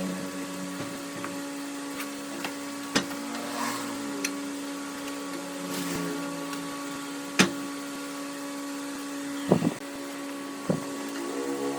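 Wood lathe motor running with a steady hum, with several sharp knocks and clicks, the loudest about seven seconds in.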